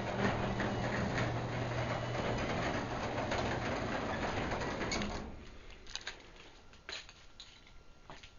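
Craftsman 3/4 HP belt-drive DC garage door opener running steadily with a low hum as it drives the door open, then stopping about five seconds in at the end of its travel. A few faint clicks follow.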